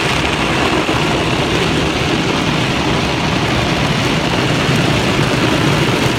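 Car wash equipment running: a loud, steady rush of noise that holds without break, from water spray and machinery.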